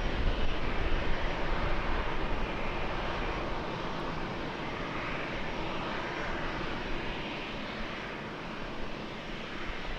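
Jet airliner engines, a steady rushing noise that slowly fades as the aircraft moves away, with low rumbling in the first few seconds.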